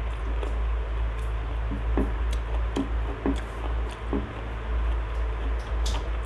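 Eating sounds: chewing a mouthful of rice and fried catfish, and fingers pressing and mixing rice on a plate, heard as soft wet squishes and small clicks. A steady low hum runs underneath.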